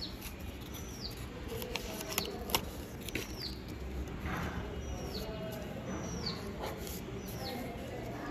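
A bird chirping repeatedly, short high notes that fall in pitch, about once a second. A few light clicks and rustles of paper pieces being handled come in the first few seconds.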